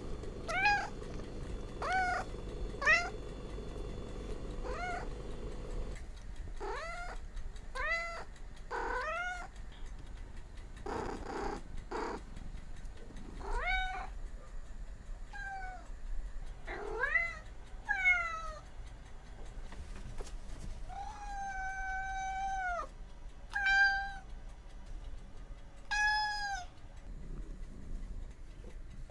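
Domestic cats meowing over and over: many short calls that rise and fall in pitch, with one long, drawn-out meow about three quarters of the way through. There is also a brief noisy rush near the middle.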